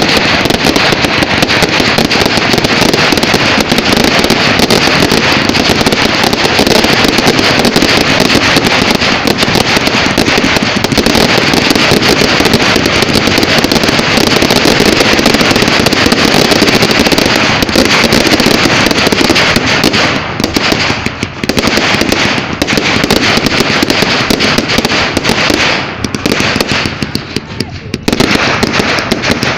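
Fireworks going off as a dense, continuous crackle of rapid bangs, easing briefly about twenty seconds in and again near the end.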